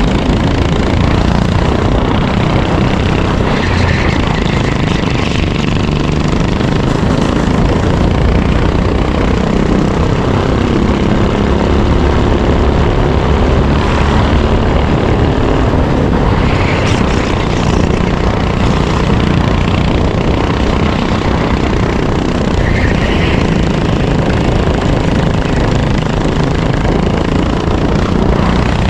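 Racing kart's engine running hard, revs rising and falling through the laps, heard from onboard.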